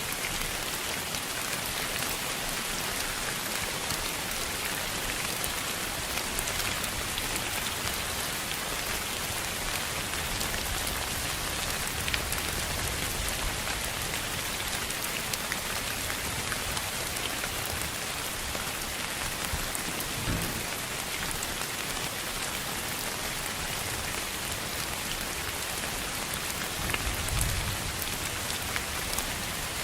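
Steady, even hiss of a continuous sleep-noise track that sounds like rain, with fine scattered ticks and brief low rumbles about two-thirds of the way through and again near the end.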